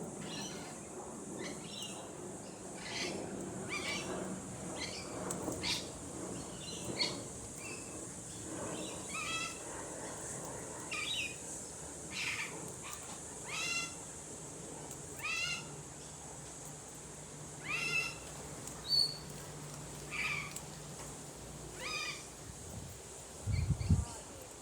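A bird giving a repeated, harsh, drawn-out call roughly every one to two seconds, over a steady high insect drone. A low thump comes near the end.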